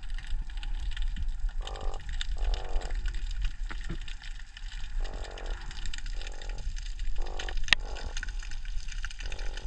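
Unidentified underwater croaking: six short, buzzy croaks about half a second each, at irregular intervals, over a steady crackle of faint clicks and low water rumble, with one sharp click about three-quarters of the way through.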